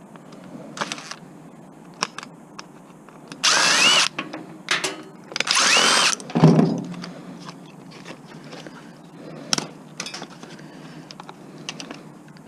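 A cordless power drill runs twice, for about a second each time, its motor whine rising in pitch as it speeds up, driving screws out of an old microwave being scrapped. Between the runs come scattered clicks and knocks of metal parts being handled.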